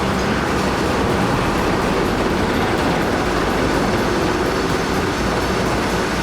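Heavy machinery running: a loud, steady mechanical rumble with no breaks.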